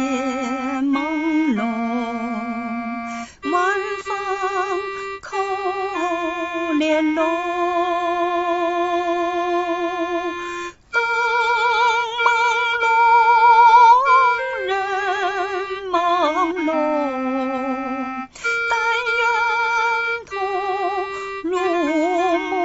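A woman singing a slow melody in long held notes with a wide vibrato, phrase after phrase with short breaths between.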